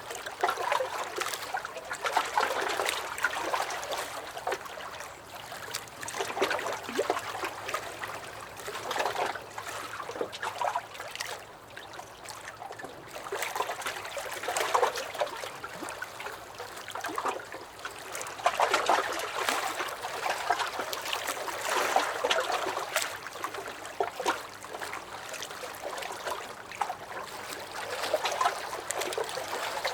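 Small lake waves lapping and sloshing against a dock, in uneven surges every second or two with small splashes and trickles.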